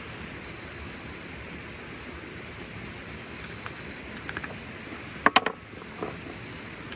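Steady running noise of a vehicle, with a pair of sharp clicks a little past five seconds in and a smaller one just after.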